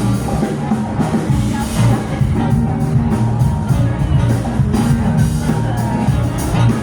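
Live rock band playing, with the drum kit keeping a steady beat over a bass line.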